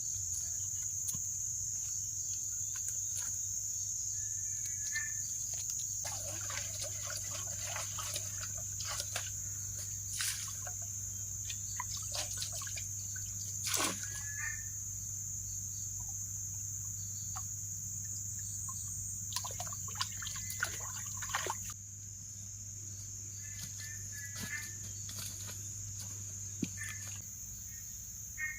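Steady high-pitched chorus of forest insects, with short chirping calls every few seconds and scattered light clicks.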